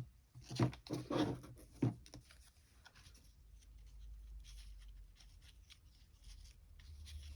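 Paper pieces being handled and set down on a craft table: a few soft knocks in the first two seconds, then light rustling and small ticks.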